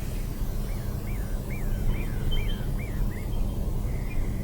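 A bird singing a run of about seven quick, looping notes, a little over two a second, with a few short high piping notes, over a low steady rumble of background noise.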